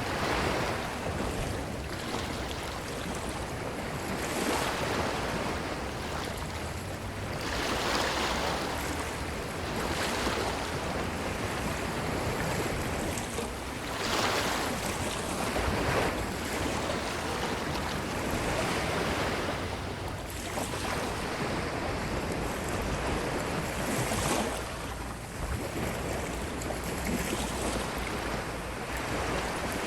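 Ocean waves washing onto a beach: a steady surf hiss that swells every few seconds as a wave breaks and runs up the shore.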